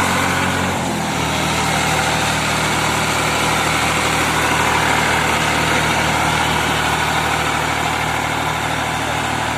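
New Holland 3630 tractor's diesel engine idling steadily, its note dropping slightly about a second in.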